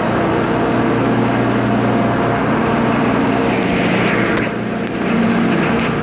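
Car engine and road noise heard from inside the cabin of a moving car, a steady low hum, with a brief rushing hiss about four seconds in.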